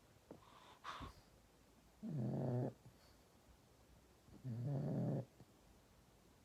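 Pug snoring in its sleep: two buzzing snores, each well under a second long and about two and a half seconds apart, with a few faint clicks in the first second.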